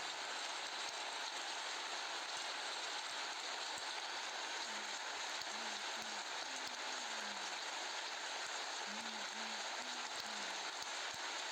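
Heavy monsoon rain pouring down in a steady, even hiss. Faint low pitched notes come and go twice underneath.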